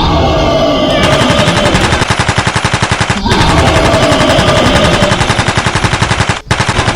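Small single-cylinder engine of a walking tractor running with a fast, even chugging, briefly interrupted about three seconds in and again near the end.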